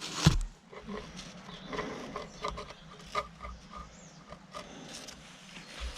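Metal parts and tools being handled on a workbench: a sharp knock near the start, then light clicks, rubbing and brief metallic pings.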